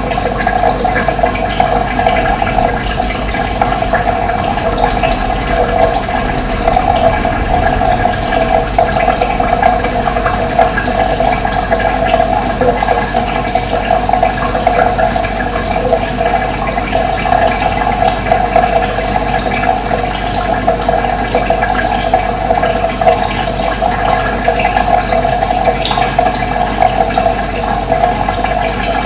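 Steady rush of running water, with short, high bird chirps scattered through it.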